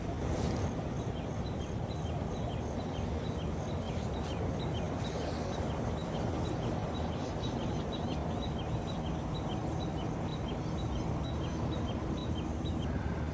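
Steady low outdoor rumble with a regular series of short, high animal chirps, about three a second.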